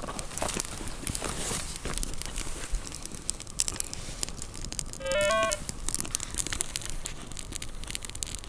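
Campfire crackling and snapping with sharp irregular clicks throughout. About five seconds in, a short electronic beep steps upward in pitch for about half a second, from the metal detector as its temperature reading is checked.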